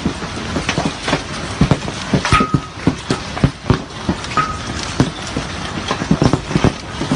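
Large hailstones pelting hard surfaces in a dense, irregular clatter of loud knocks over a steady hiss of falling ice. A short high beep sounds twice, a couple of seconds apart.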